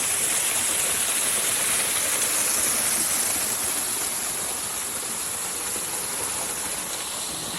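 Waterfall crashing down at close range, a steady rush of falling water.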